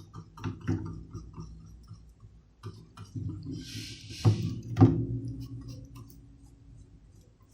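Small clicks and knocks of tools and parts being handled on a workbench, with a brief hiss about four seconds in followed by two thumps, the second the loudest. A faint low steady hum runs underneath.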